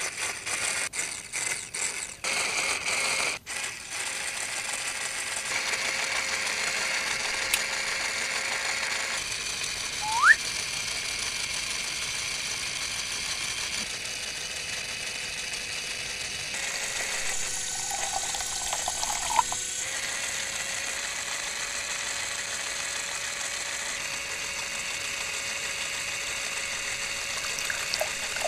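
Small toy electric motor running steadily with a whirring hum, driving plastic gears that click rapidly in the first few seconds. A short rising squeak about ten seconds in.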